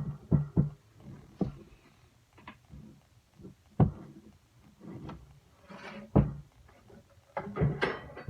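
A glued wooden kitchen drawer being handled, turned and set down on a hard surface: irregular wooden knocks and thumps, the sharpest right at the start, with a quick cluster near the end.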